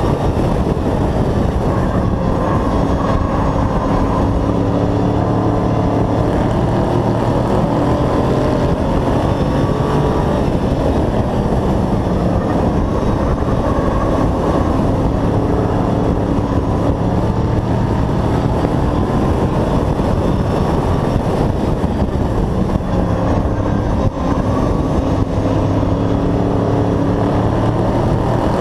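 Hobby stock race truck's engine heard from an onboard camera, running at racing speed with its pitch rising and falling repeatedly as it accelerates and lifts around the oval.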